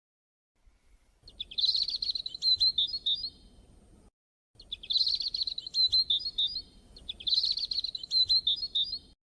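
A small songbird singing the same chirping phrase three times, each a quick run of high notes lasting about two seconds, the first starting about a second in.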